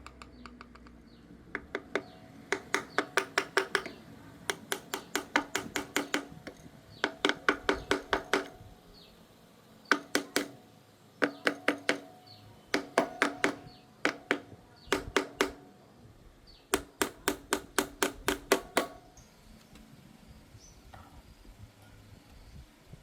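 Bursts of quick, evenly spaced hammer blows on a ringing metal part, about five strikes a second in runs of a few seconds with short pauses between.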